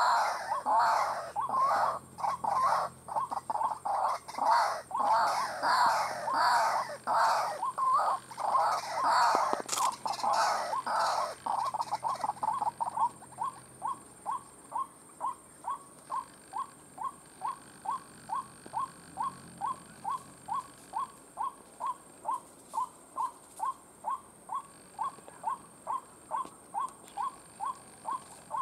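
White-breasted waterhen calling. For about the first twelve seconds there are loud, harsh, closely repeated croaking calls. These then settle into a long, even series of short single notes, about two a second and quieter.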